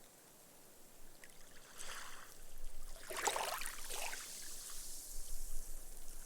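Gentle ripple waves washing up onto a sandy beach: a small wash about two seconds in and a stronger one about three seconds in, then a fizzing hiss as the foam soaks into the sand.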